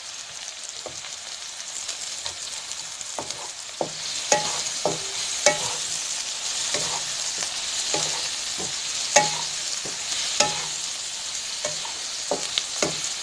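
Sliced onions sizzling in oil in a non-stick pan while a slotted wooden spatula stirs them, tapping and scraping against the pan. The sizzle grows louder about four seconds in, and the sharp taps of the spatula stand out over it.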